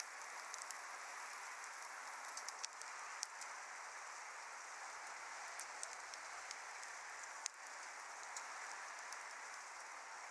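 Wood fire burning: a steady hiss with scattered sharp crackles and pops, the loudest pop about seven and a half seconds in.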